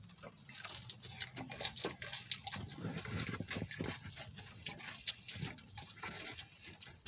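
A man biting into and chewing a flauta close to the microphone: a string of irregular, wet mouth clicks and chewing noises.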